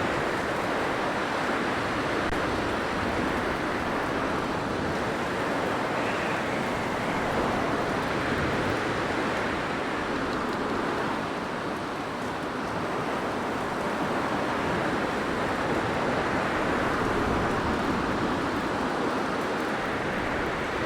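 Blizzard wind: a steady rushing gale that swells and eases slightly, dipping a little about halfway through.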